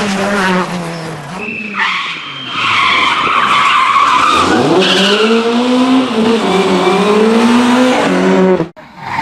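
Rally car engine revving hard, its pitch falling and climbing again and again as the driver lifts, shifts and accelerates, with tyres squealing through the slide in the middle. It cuts off abruptly near the end.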